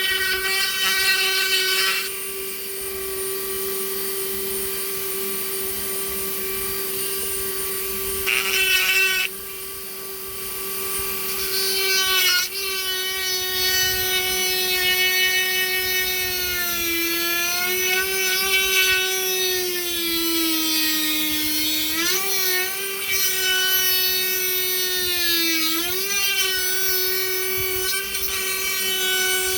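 A woodworking power tool's electric motor running steadily with a whine. In the second half its pitch sags and recovers several times, as the motor slows under load while cutting or shaping wood.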